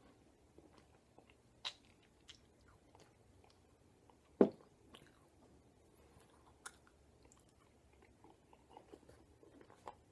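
Faint wet mouth clicks and smacks of someone chewing a wad of loose-leaf chewing tobacco, with the loudest smack about four and a half seconds in.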